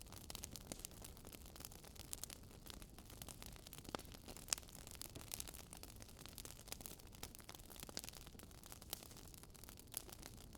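Wood fire crackling: faint, irregular small pops and snaps over a soft steady hiss.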